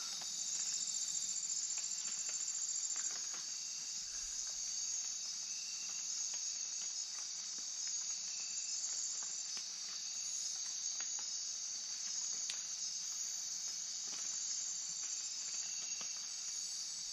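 Steady, high-pitched chorus of night insects in tropical rainforest, with a few faint ticks scattered through it.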